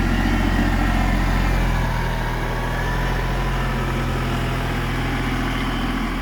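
Kubota tractor's diesel engine running steadily, with a slight drop in level about two seconds in.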